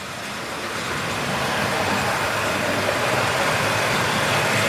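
Model railway locomotive hauling a train along the layout's track: a steady electric-motor hum and wheel-on-rail rumble growing slowly louder as the train approaches.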